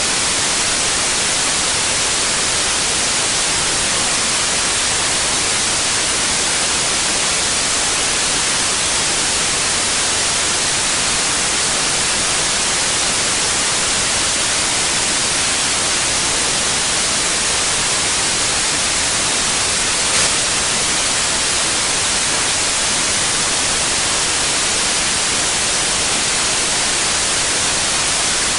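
Steady, unchanging white noise hiss, strongest in the treble. One brief tick about twenty seconds in.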